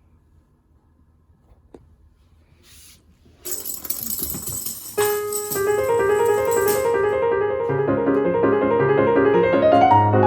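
Background piano music, a run of notes that starts about halfway through. It is preceded by a few seconds of near quiet with a single small click, then a brief rustling noise.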